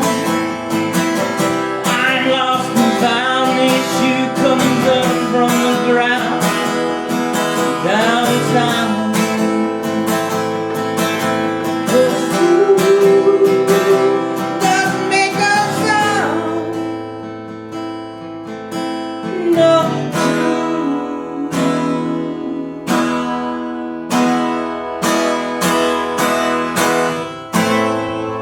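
Acoustic guitar strummed with a voice singing over it; the voice drops out a little over halfway and the guitar carries on alone with separate strummed chords, fading near the end.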